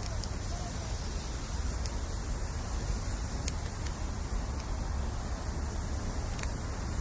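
Bamboo firewood burning in a campfire, giving scattered sharp crackles and pops, about six in seven seconds, over a steady low rumble and hiss.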